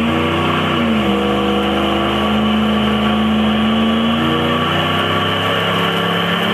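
1996 Dodge Ram pickup's engine held at high revs during a burnout, spinning the rear tire. The note dips briefly about a second in, then holds steady and creeps slightly higher.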